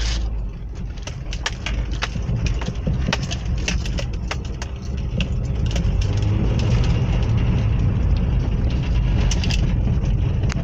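2013 Nissan Livina on a road test: a steady low rumble of the car and tyres on the road, with many small clicks and knocks, getting louder about six seconds in. No squeal comes from the rear drum brakes, which have just been cleaned of built-up dirt.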